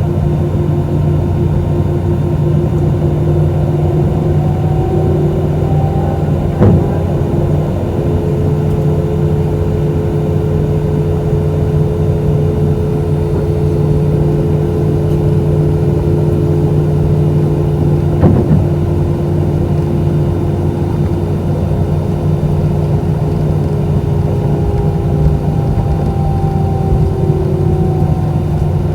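Airbus A320's CFM56 jet engines running steadily, heard inside the passenger cabin with a steady drone and hum. Two brief thumps come about 7 and 18 seconds in.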